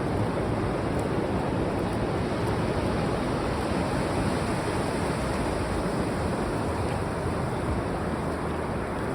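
Ocean surf washing in a steady, unbroken rush.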